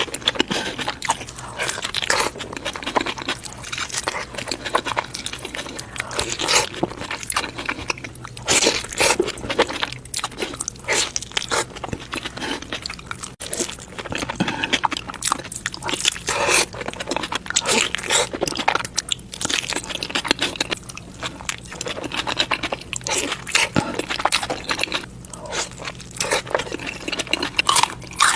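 Close-miked crunchy eating: repeated bites and chewing of crisp food, sharp irregular crackles one after another with no pause.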